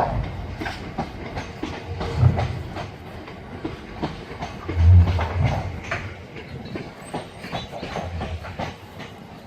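Freight train rolling past, its wheels clattering over the rail joints with irregular clicks and heavy low thumps, the loudest about two and five seconds in. The clatter eases off over the last few seconds.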